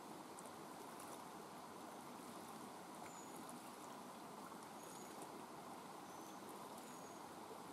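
Steady rain falling, a faint even hiss, with four brief high chirps scattered through the second half.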